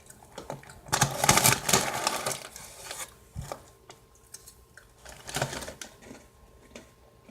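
Small crackers rattling and rustling in their snack bag as a hand digs in: a burst of quick clicks and rustle about a second in lasting a second and a half, and a shorter one about five seconds in.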